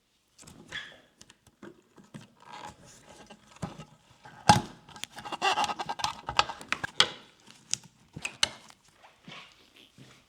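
Tools and small parts being handled by hand: scattered clicks, light knocks and scrapes. A sharp knock comes about four and a half seconds in, followed by a run of quick rattling clicks.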